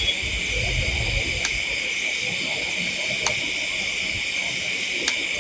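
Night insect chorus, crickets making a steady high-pitched drone, with a few sharp clicks about every two seconds and a low rumble in the first second or so.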